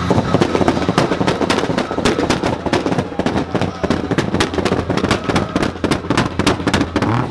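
A car engine held on a two-step launch-control rev limiter, firing a fast, irregular string of loud exhaust pops and bangs, several a second.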